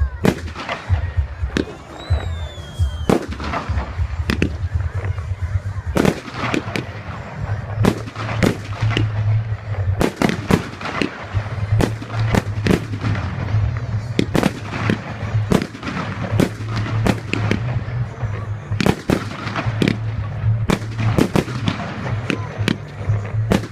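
Fireworks display: a rapid, irregular string of bangs and crackles from bursting shells, with a falling whistle about two seconds in.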